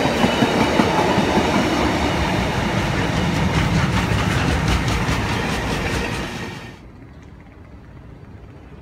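Container wagons of a Freightliner freight train passing at speed, a dense rumble and clatter with a run of rhythmic wheel clicks near the middle. The noise cuts off suddenly about six and a half seconds in, leaving only a faint background.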